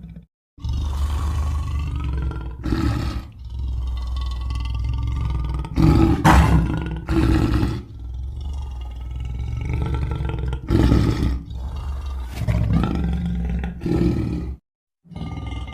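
Custom big-cat sound effects for a mountain lion character: a long run of low, rumbling growls broken by louder roars, loudest past the middle, with a short silent break just after the start and another near the end.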